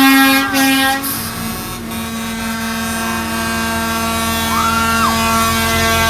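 Parade trucks going by with a truck air horn sounding, loudest in the first second and then holding on as a steady tone under the rumble of the trucks. A short high whoop from the crowd rises and falls near the middle.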